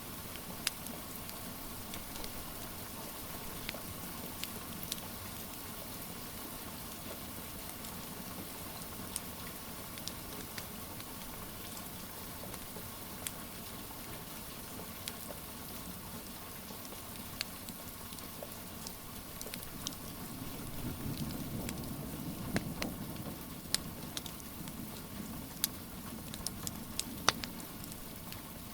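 Steady rain hissing, mixed with a wood fire crackling in scattered sharp pops that come more often near the end. A soft low rumble swells up for several seconds in the last third.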